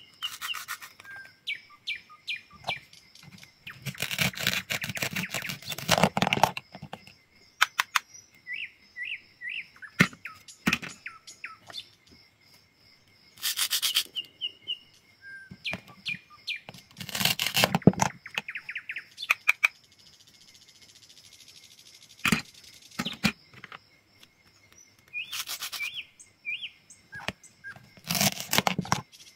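Knife cutting through food in a series of strokes, some drawn out over a second or two, others short sharp clicks, with birds chirping between them.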